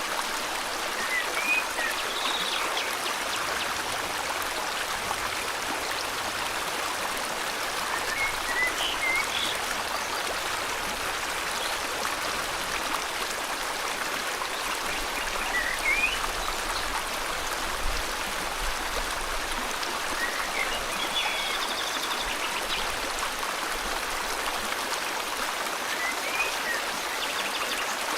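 River water flowing steadily, with a bird giving short, rising chirps every few seconds over it.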